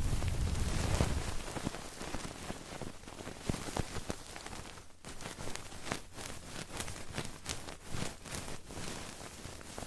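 Close-miked ASMR trigger sounds: dense crackling and scratching against the microphone, full of many small irregular clicks, with a low rumble of handling in the first second.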